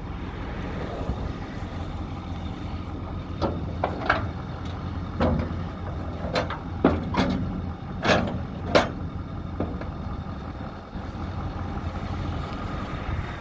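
Ford F350's diesel engine idling steadily, with a handful of sharp knocks and clicks in the middle of the stretch.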